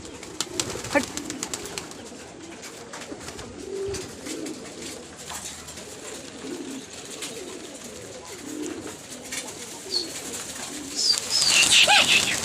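Pigeons cooing repeatedly in soft, low calls every second or two. Near the end comes a louder flurry of flapping wings.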